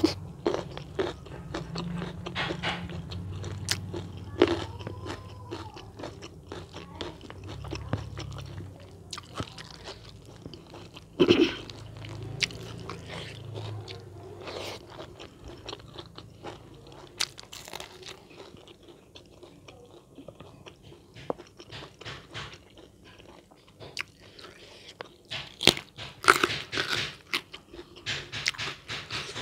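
A person chewing and biting food close to the microphone, with many short crunches and a few sharper, louder bites about a third of the way in and again near the end.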